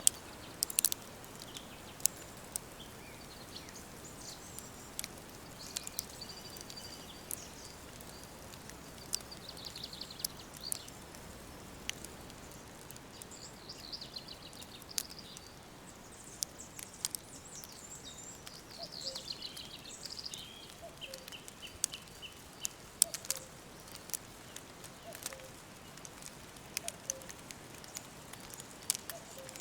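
Woodland birds singing in short warbled phrases, one a falling run of repeated notes, over a steady hiss, with frequent sharp crackles throughout.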